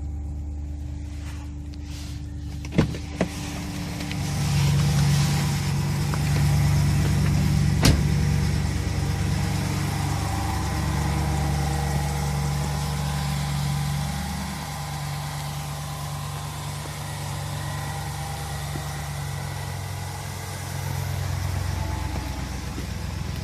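BMW E65 735i's 3.6-litre V8 running at idle just after a cold start in freezing weather. It gets louder about four seconds in and eases back down after about fourteen seconds, with a few sharp clicks along the way.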